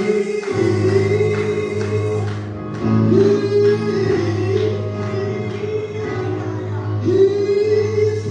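Gospel singing with sustained, wavering sung notes over a steady low accompaniment.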